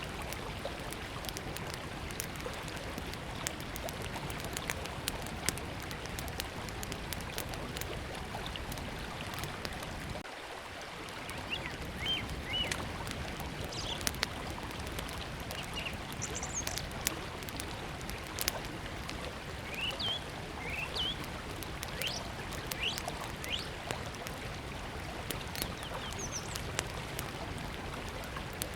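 Small wood fire crackling with sharp pops over the steady rush of a flowing river, with birds chirping from about halfway through.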